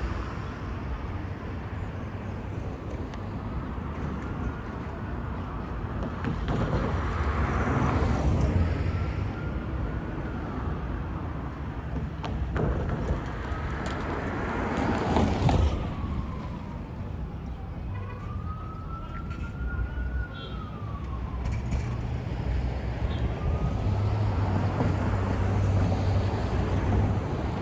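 An emergency vehicle siren wailing in several slow rising and falling sweeps, over the rumble of road traffic with vehicles passing.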